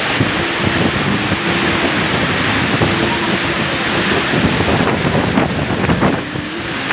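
Heavy rain and strong storm wind, a loud steady rush of noise with wind buffeting the phone's microphone.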